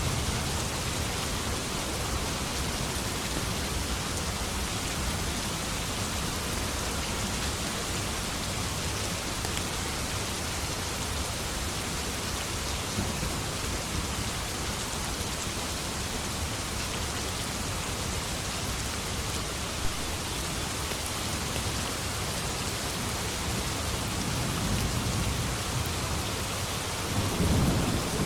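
Steady heavy rain with an even hiss, and a low rumble of thunder swelling near the end.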